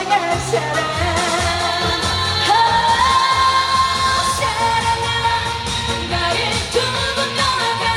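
Live Korean trot song: a female singer with full band backing and a steady beat, with a long note held through the second half.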